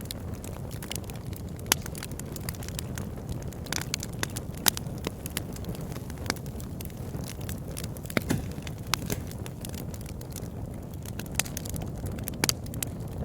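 Wood fire crackling, with a steady low rumble of the burning and irregular sharp pops and snaps throughout.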